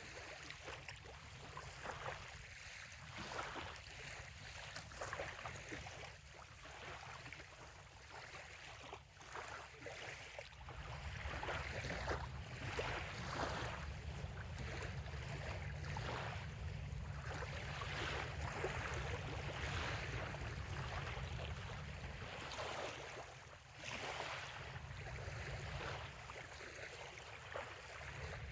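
Small bay waves lapping and splashing on a sandy shore in an irregular rhythm. Under them runs a steady low rumble that grows louder about ten seconds in.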